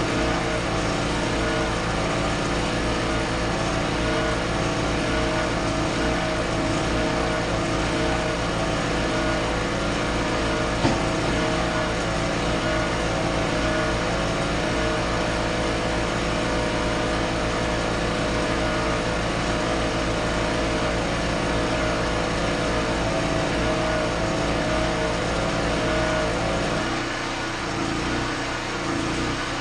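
An engine running steadily, its pitch and low rumble shifting about 27 seconds in.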